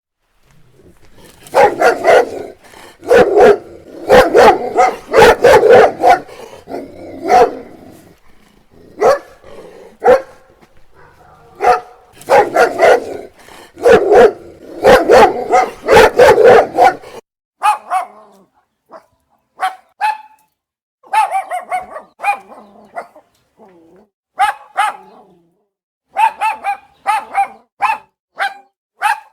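Dogs barking in repeated bouts. About seventeen seconds in, the barking changes to shorter, higher barks, more widely spaced, over a silent background.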